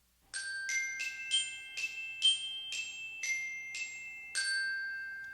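A short melody of about ten bright, bell-like struck notes on a glockenspiel-type mallet instrument, roughly two notes a second. The last note rings out and fades.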